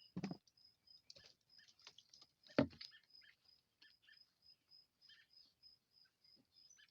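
Short high chirps repeating evenly, about three a second, from a calling animal, with scattered rustling, a brief burst of noise just after the start and a sharp thump about two and a half seconds in.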